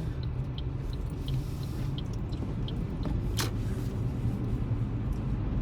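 Road noise heard inside a moving car's cabin: a steady low rumble. Faint light ticking runs about three times a second, and a brief hiss comes about three and a half seconds in.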